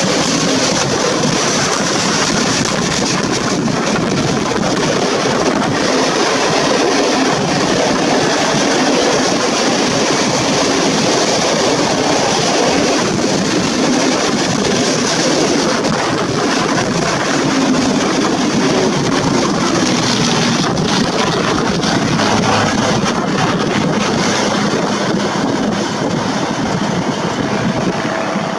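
Container freight train of flat wagons rolling past close by, a steady loud rumble and rattle of steel wheels on the rails.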